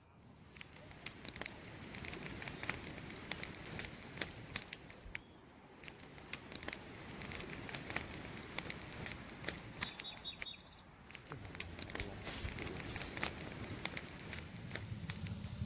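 Campfire crackling, with frequent sharp pops and snaps over a low steady hiss of burning wood. A few brief high chirps come about nine to ten seconds in.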